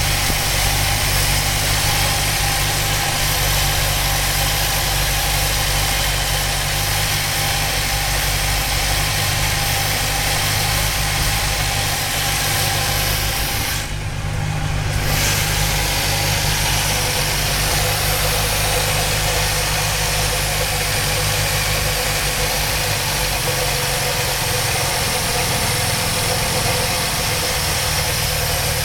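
1959 Alfa Romeo Giulietta Sprint's 1300 cc twin-cam four-cylinder engine idling at a steady pitch. The sound goes briefly duller about halfway through.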